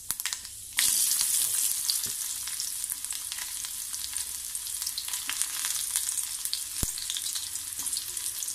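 Fenugreek seeds crackling in hot coconut oil in a kadai. About a second in, sliced shallots go in and the oil breaks into a loud, steady sizzle with scattered pops as they fry.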